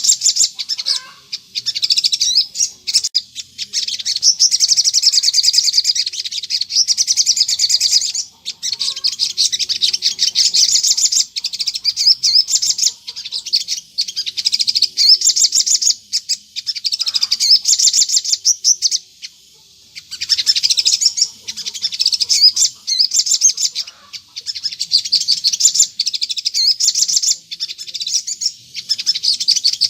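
Sogon songbird singing a continuous, rapid chattering song of high chirps, in long runs a few seconds each with brief pauses between: the sustained 'gacor ngleper' song used as a lure to make other sogon birds reply.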